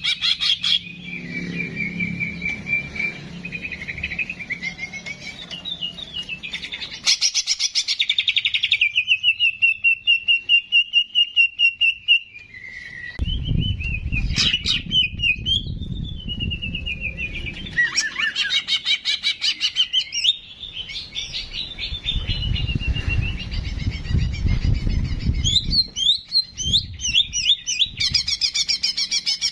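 Songbird singing continuously in fast trills and rapid chattering phrases, one run after another. A low rumble sounds underneath twice, in the middle and again toward the end.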